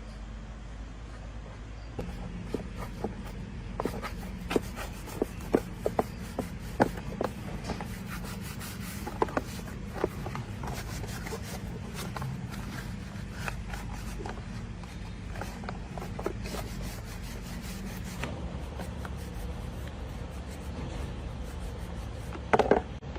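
Hand tools being worked on parts: irregular sharp clicks, taps and rubbing over a steady low hum, with a short burst of louder knocks near the end.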